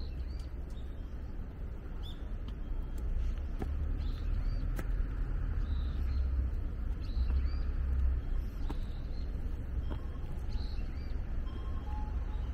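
Small birds chirping in short, scattered calls over a steady low rumble, with a few light clicks.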